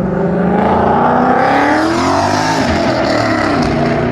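Car engine revving loudly, its pitch climbing for about two seconds, dropping sharply, then holding high again.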